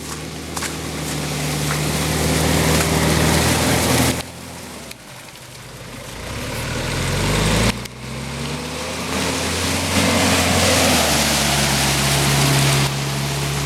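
Toyota Hilux Surf 4x4 engine revving hard under load as it works itself free after bottoming out in forest mud, over the rush of spinning tyres. The revs drop suddenly about 4 s in and again near 8 s, then build back up and hold high.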